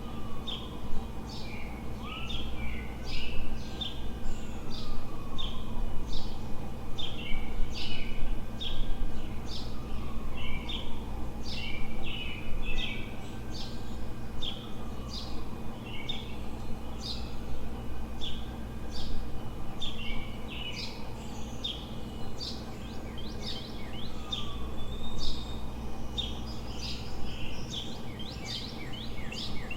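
Several small songbirds chirping and singing at dawn, dense and overlapping, over a steady low city hum. A slow tone rises and falls about every four seconds in the background.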